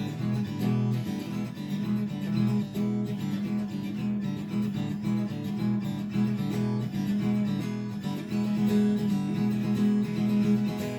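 Acoustic guitar strummed in a steady rhythm, playing the instrumental intro of a song.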